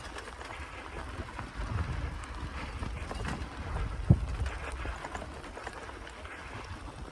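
Riding a bicycle along a forest track: low wind rumble on the microphone and tyre noise, with scattered small clicks and rattles and a single thump about four seconds in.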